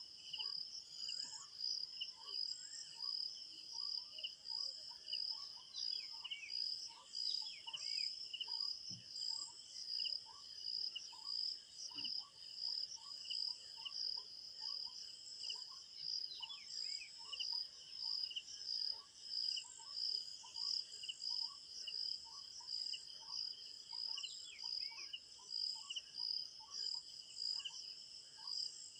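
Crickets chirping in a steady, fast-pulsing chorus, with a short lower note repeating about twice a second beneath it. A bird calls a few times with brief falling whistles.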